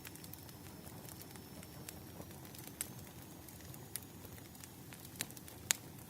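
Wood fire crackling: irregular sharp pops and snaps over a low steady hiss, with a few louder pops in the second half.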